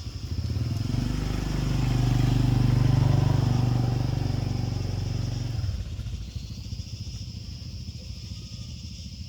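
Small motorcycle-type engine running, its note building up and held for a few seconds, then dropping away sharply about six seconds in to a faint low rumble.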